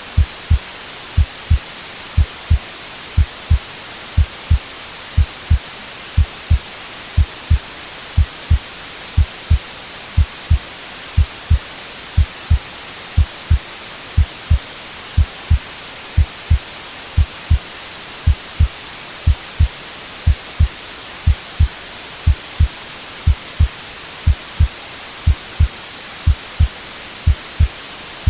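Recorded heartbeat, a steady double 'lub-dub' thump about once a second, over a continuous white-noise hiss.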